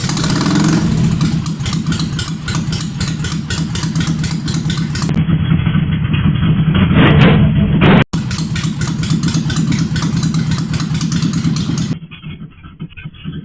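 Ducati 696 air-cooled L-twin engine running loud through a custom exhaust, with a rev rise about seven seconds in. It cuts out abruptly for an instant near eight seconds and goes much quieter about twelve seconds in.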